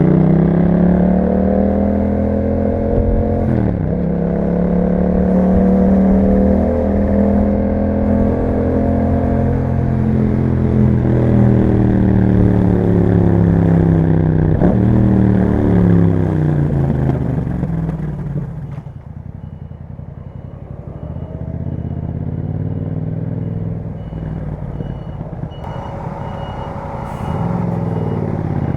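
Yamaha MT-07's parallel-twin engine through an Akrapovic exhaust, pulling up through the gears with brief pitch drops at gear changes about 4 and 15 seconds in. It then slows and settles to a quieter low note while a faint repeated high beep sounds. It picks up again near the end.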